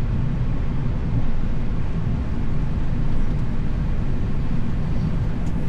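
Steady low rumble inside an airliner cockpit, from the jet engines at idle and the cockpit airflow, while the aircraft taxis.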